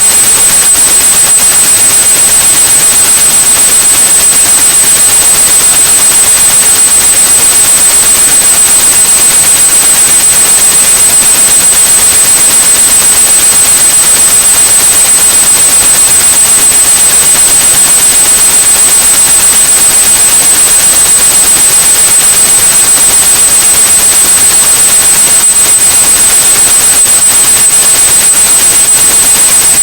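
A steady, loud 8100 Hz high-pitched tone over continuous white noise, a synthetic masking sound for tinnitus relief.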